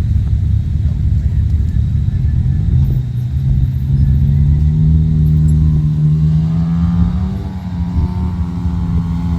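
ATV engine running, its pitch rising from about three seconds in and then holding steady, over rough low rumbling noise.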